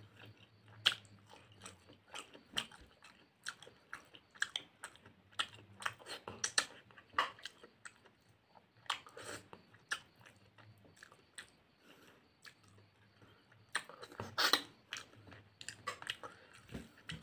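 Close-miked chewing and biting of a rice meal eaten by hand: wet mouth clicks and smacks at an irregular pace, several a second, with a louder cluster near the end.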